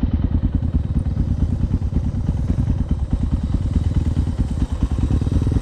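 Suzuki DR650's single-cylinder engine running steadily, a rapid low pulsing with no clear rise or fall in pitch.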